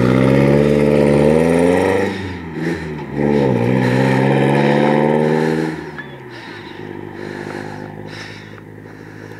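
Engine of a homemade open-top car built from Mercedes-Benz parts accelerating away: the pitch climbs through two pulls, with a brief drop about two seconds in, then the sound falls off sharply about six seconds in and fades as the car drives off.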